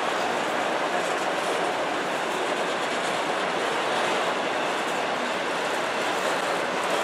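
Freight train of autorack cars rolling past at close range: a steady rush and rumble of steel wheels on rail.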